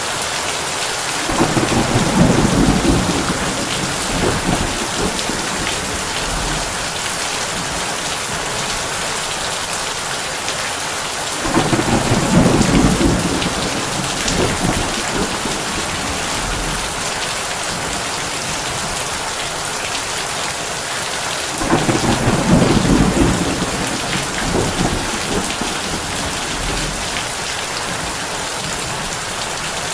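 Heavy rain falling steadily on a tin roof. Three rolls of thunder come about ten seconds apart, each rumbling for roughly three seconds.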